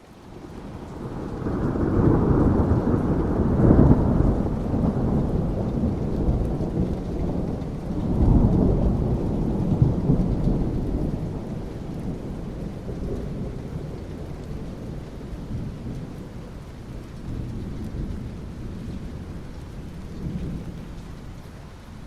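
Thunder rolling over steady rain: a long, deep rumble that builds over the first two seconds, swells again about eight to ten seconds in, then slowly dies away under the rain.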